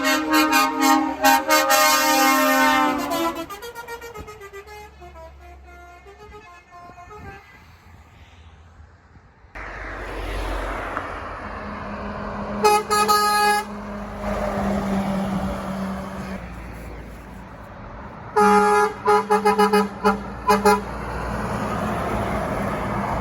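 Truck horns honking at a passing spotter: a long run of rapid toots that fades away as the truck passes. It is followed by road traffic noise and two later bursts of short, stuttering horn blasts.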